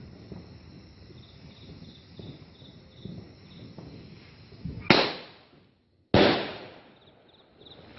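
Two loud firework bangs a little over a second apart, each dying away over most of a second.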